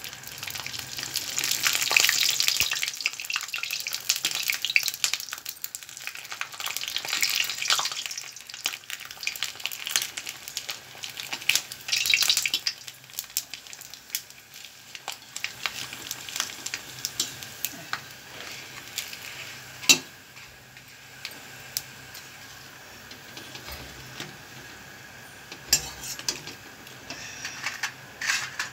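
Raw-rice papad frying in hot oil in a kadhai, sizzling, while a metal spoon stirs and scrapes it against the pan. The sizzle comes in strong swells in the first half and settles lower later, with sharp taps of the spoon on the pan, the loudest about 20 seconds in.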